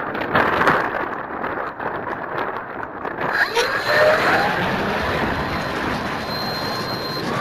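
Gusty wind buffeting the microphone of an onboard camera on an FMS Cessna 182 electric RC model plane, with the electric motor's whine gliding up in pitch about halfway through and then holding steady.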